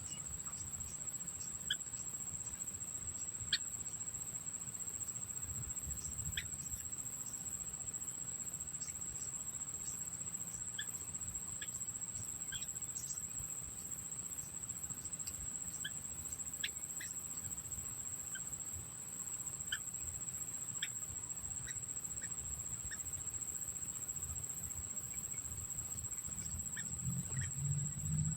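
Crickets trilling steadily on one high pitch, with scattered short, sharp chirps from small birds every second or so.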